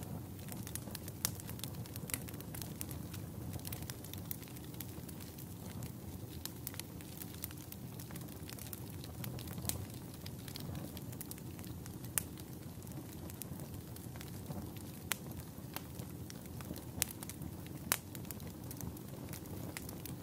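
Campfire burning: a steady low rush of flame with sharp crackles and pops every second or few.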